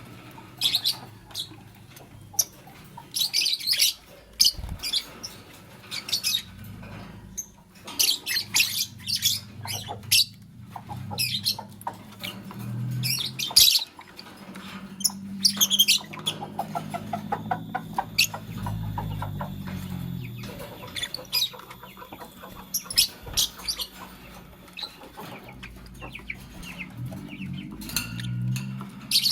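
Fischer's lovebirds chirping: repeated short clusters of high-pitched chirps, with gaps between them, over a low steady hum.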